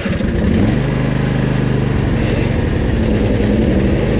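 Craftsman YT4000 riding lawn mower engine running; under a second in, its note drops and turns louder and steadier.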